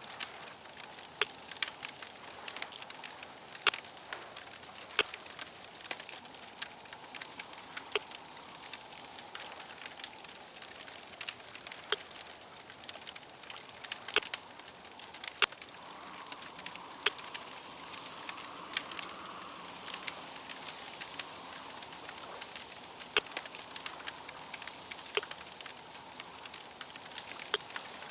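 Fire crackling, with frequent sharp, irregular pops over a steady hiss.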